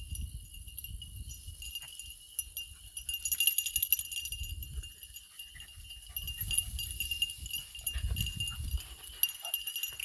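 Beagle hounds' collars jingling as the pack comes in to the handler, in scattered clicks that grow busier a few seconds in, over a steady high-pitched drone.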